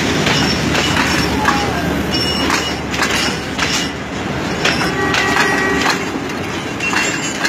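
Train running on the rails: a steady rumble with irregular clattering clicks and short high squeals. A pitched tone sounds for about a second around five seconds in.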